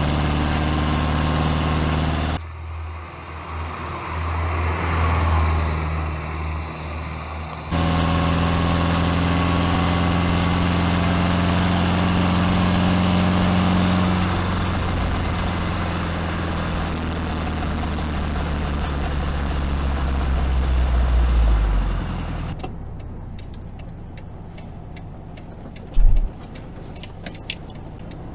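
Air-cooled flat-four engine of a 1973 VW Beetle 1303 S running as the car drives, its level rising toward about twenty seconds in. Over the last few seconds it is much quieter, with a sharp knock and a few light clicks near the end.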